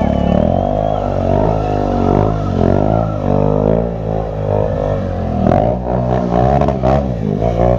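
Stunt motorcycle engine held at high revs, its pitch wavering up and down continuously as the throttle is worked.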